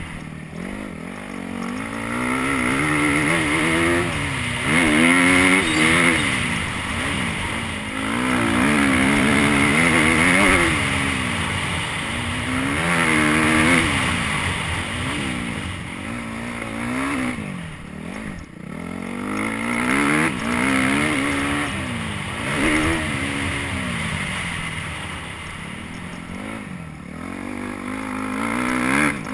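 Motocross dirt bike engine revving hard and backing off again and again as it is ridden around the track, its pitch climbing and dropping every couple of seconds through the gears.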